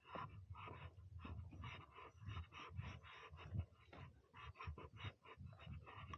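Faint footsteps crunching on the forest floor, a quick irregular run of crackly steps with dull thuds beneath.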